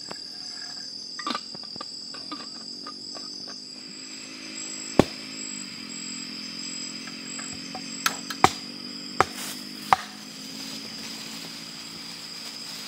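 Night insects chirring steadily in the forest, with a handful of sharp knocks from camp cooking work in the middle.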